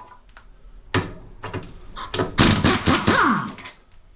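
Pneumatic impact wrench hammering on the rear silent-block bolt of a Ford Focus front lower control arm: a short burst about a second in, then a longer run from about two seconds in that winds down in pitch.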